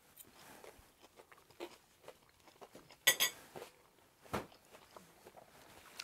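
Quiet mouth sounds of people chewing bites of a Scotch egg, with scattered small clicks and a few sharper short sounds, the loudest about three seconds in.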